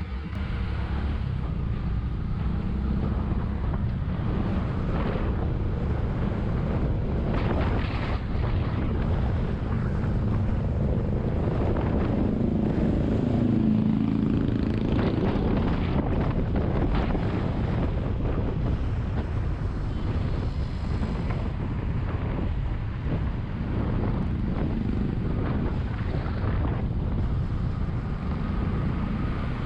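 Bajaj Vikrant V15's single-cylinder engine running while the bike is ridden along, under heavy wind rush on the microphone. The engine note rises and falls briefly near the middle.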